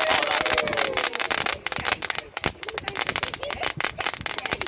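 Burning firework giving off dense, rapid crackling over a steady hiss.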